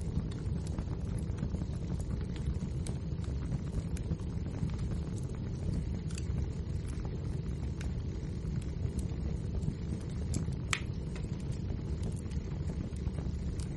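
Wood fire burning in a fireplace: a steady low rumble of flames with scattered crackles and small pops, one louder pop about three quarters of the way through.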